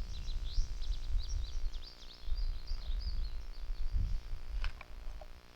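A small songbird singing a fast twittering run of high chirps through the first three seconds or so, over a steady low rumble.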